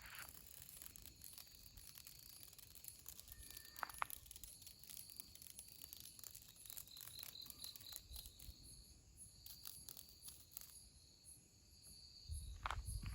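Faint, steady high-pitched insect chirring, with scattered small clicks and a few low footstep-like thuds near the end.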